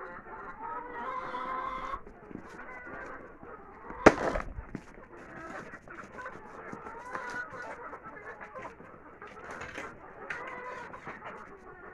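Chickens clucking and calling on and off, with a single loud thump about four seconds in.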